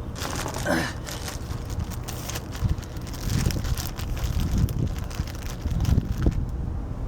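Wind buffeting the microphone, with scattered clicks and rustling.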